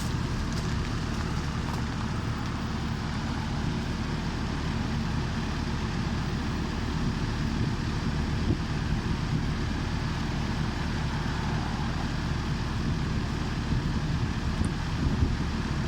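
An old air conditioner running steadily: a low, even hum with a rush of moving air over it.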